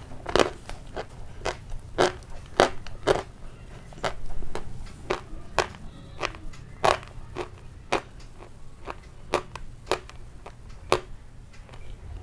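Close-miked chewing of crunchy food with the mouth closed: a steady run of sharp crunches, about two a second.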